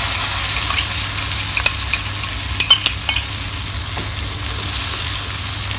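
Curry powder paste sizzling as it fries with onions in a metal wok, stirred with a wooden spatula. There is a steady hiss of frying, and a few sharp clicks of the utensils on the wok come about one and a half and three seconds in.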